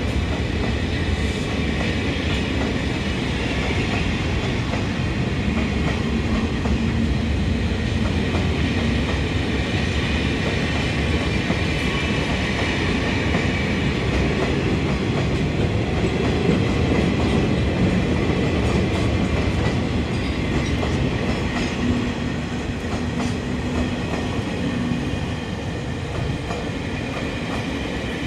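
Railway wagons and coaches of a slow freight train rolling past close by: a steady rumble of steel wheels on rail, with a clickety-clack over the rail joints.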